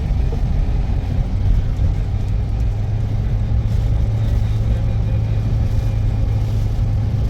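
A motor vehicle's engine running steadily with a low, even drone that becomes stronger about halfway through.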